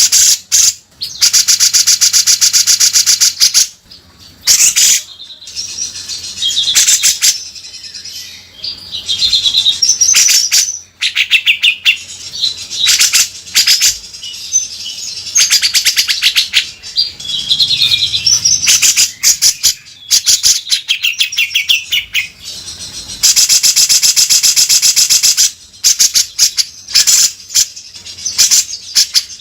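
Grey-cheeked bulbul (cucak jenggot) singing loudly and continuously: long, harsh rasping trills of two to three seconds, near the start and again about two-thirds of the way in, alternate with shorter chirps and warbled phrases.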